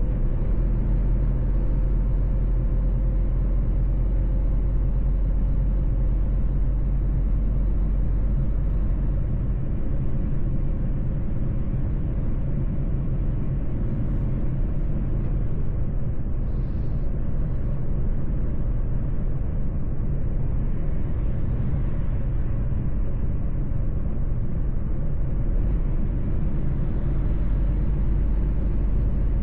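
Mercedes-Benz truck driving along: a steady engine drone and road rumble.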